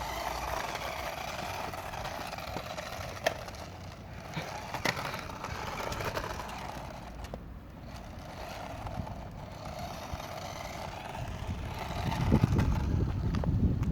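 1:24-scale radio-controlled toy Range Rover driving, its small electric motor and gears whirring. The whir drops away briefly a couple of times and comes back. There are a few sharp clicks, and a louder low rumble near the end.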